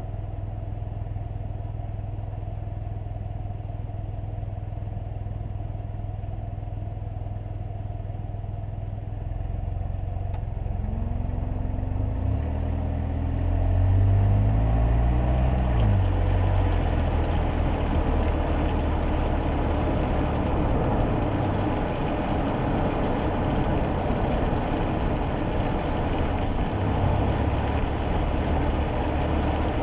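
Kei car heard from inside the cabin: a steady low engine hum, then about ten seconds in the engine pulls away and accelerates, its pitch rising. Road and tyre noise from the rain-wet road builds and stays as the car drives on.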